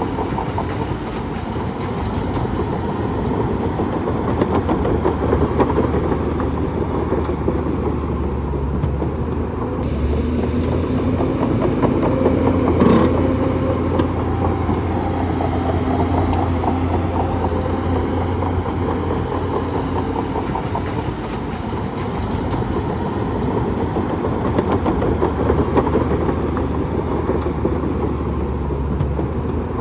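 Bulldozer running steadily under load, its engine droning low beneath a dense, rapid clatter typical of crawler tracks, with a brief louder clank about halfway through.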